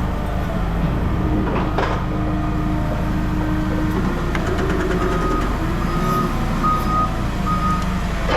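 A heavy vehicle's engine running steadily, with a knock about two seconds in and then a reversing alarm beeping four times in the second half.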